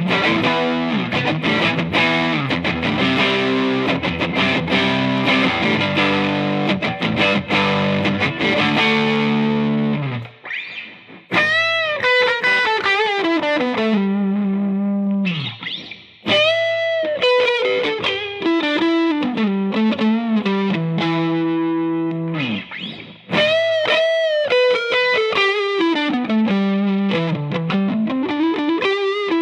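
Squier Jazzmaster electric guitar played through distortion: about ten seconds of thick sustained chords, then phrases of single notes that glide down in pitch, with short pauses between them.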